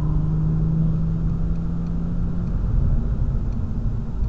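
BMW M240i's turbocharged straight-six running at a steady engine note that fades away after about two and a half seconds, under a constant low road and tyre rumble, heard from inside the cabin.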